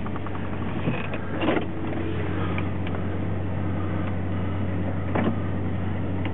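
Low, steady hum of the Chevrolet S-10's 4.3-litre Vortec V6 idling, with a few creaks and clicks over it, the loudest about a second and a half in and again about five seconds in.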